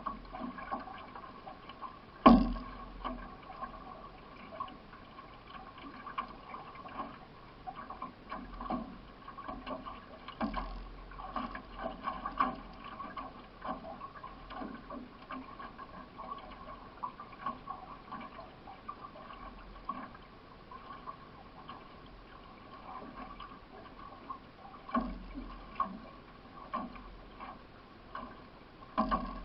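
Paddle strokes and water rushing and splashing along a racing canoe's hull, with a sharp knock about two seconds in.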